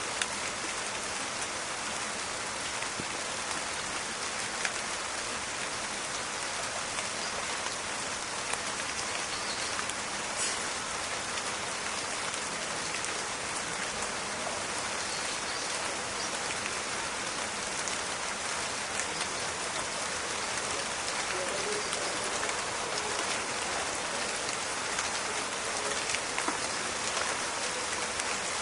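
Steady rain falling on leaves, a dense patter with fine individual drop ticks and crackles throughout.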